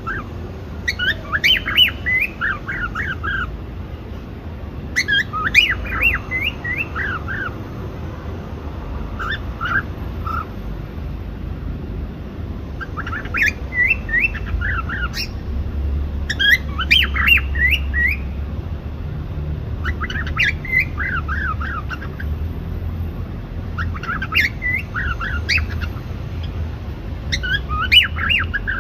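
Cockatiel chirping and whistling in short bursts of quick notes, about eight bursts a few seconds apart, over a steady low hum.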